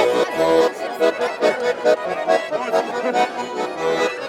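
Russian garmon (button accordion) playing an instrumental run of rhythmic chords with bass notes, a folk tune between chastushka verses.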